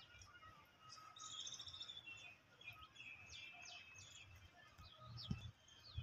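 Faint chirping and trilling of small birds, many short high calls, over a low rumble, with a short knock about five seconds in.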